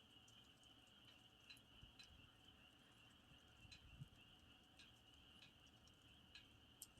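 Campfire crackling faintly, with scattered sharp pops and ticks, over a steady high trill of crickets.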